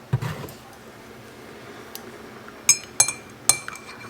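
A spoon clinking against a coffee mug while coffee is made: a soft thump near the start, then three sharp ringing clinks in the second half.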